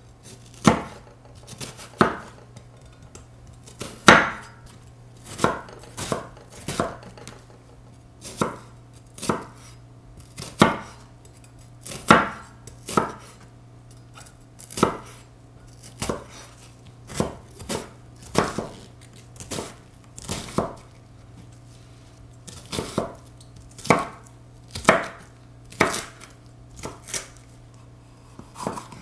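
Kitchen knife chopping vegetables on a cutting board: single sharp knocks, irregular at about one a second and sometimes two in quick succession. A steady low hum runs underneath.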